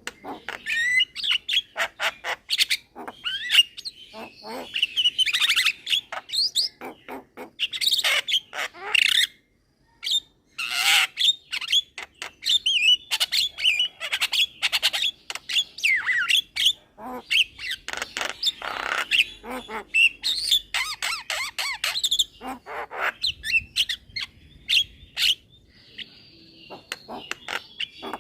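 Young Javan myna singing and calling in a fast, unbroken string of harsh squawks, sharp clicks and short whistles, with a brief pause about ten seconds in.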